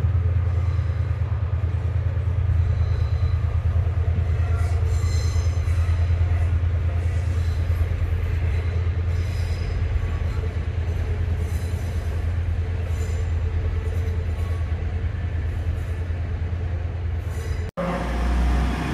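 Passenger train at a station running with a steady low drone, with faint high-pitched wheel squeals now and then a few seconds in. The sound drops out abruptly for an instant near the end.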